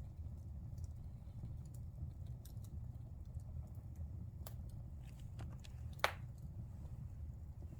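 Wood fire burning in a fireplace: a steady low rumble of the flames with scattered crackles, and one louder pop about six seconds in.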